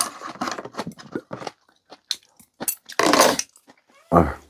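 Dishes and utensils clinking and clattering as they are handled and set down, with a low thud near the end.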